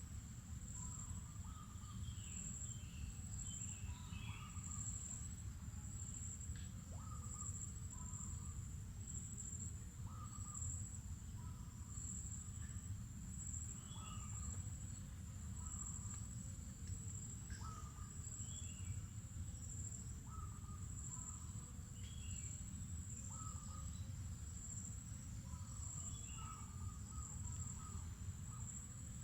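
Mangrove forest ambience: a continuous high insect trill, with short bird calls every second or two over a steady low rumble.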